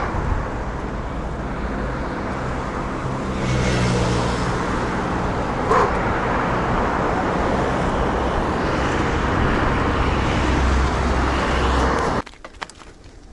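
Road traffic on a city bridge: steady rumble of engines and tyre noise, swelling as vehicles pass, with a brief sharp sound about six seconds in. The noise cuts off suddenly about twelve seconds in.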